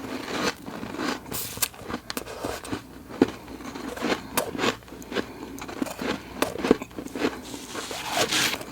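Crisp, flaky freezer frost being bitten and chewed close to the microphone: a dense run of crunches and crackles with a few sharper snaps.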